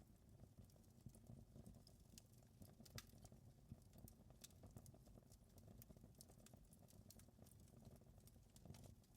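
Faint fire crackling in a fireplace: scattered, irregular sharp snaps and pops over a low, steady rumble of burning, with one sharper snap about three seconds in.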